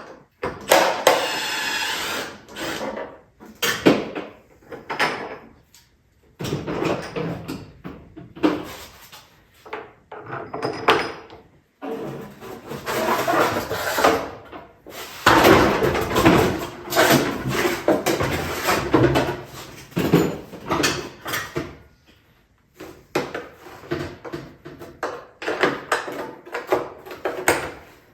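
Hands working on the plastic fender and body parts of an ATV and their fasteners: an irregular run of clicks, knocks and scraping or rubbing of plastic and metal parts, with short pauses.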